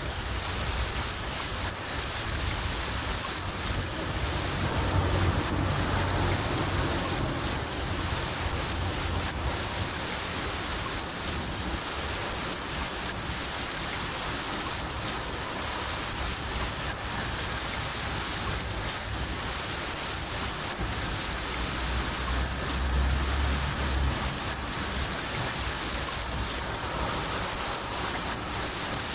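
Crickets chirping in a steady rhythm, about three chirps a second, over steady rain. Low rumbles of thunder come in twice, at about five seconds and again near twenty-three seconds.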